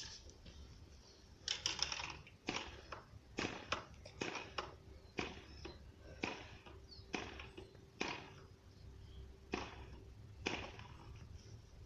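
Sharp clicks, irregularly about once a second, from the propeller of a FORA 2.5 model diesel engine being flicked over by hand. The engine is not firing.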